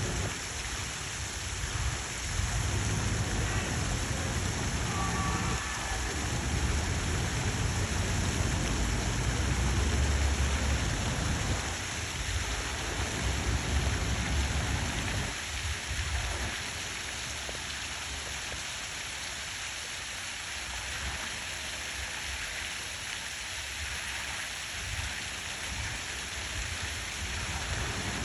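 Steady rain falling, a continuous hiss, with a low rumble underneath that swells about ten seconds in and dies away after about sixteen seconds.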